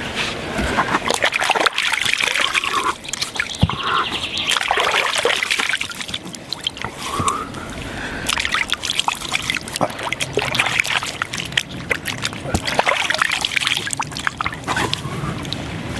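Water trickling and splashing, with many small irregular splashes and drips.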